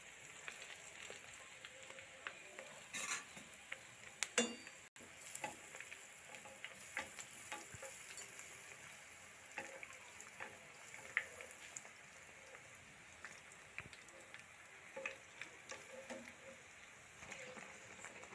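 Malpua batter deep-frying in hot oil, a steady sizzle with scattered small crackles and pops, while a slotted metal spatula scoops oil over it. There is one metal clink of the spatula against the pan about four seconds in.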